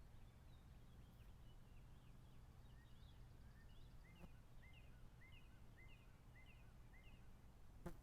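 Near silence with a bird chirping faintly in the background: a string of short, repeated chirps through the middle, then a sharp click near the end.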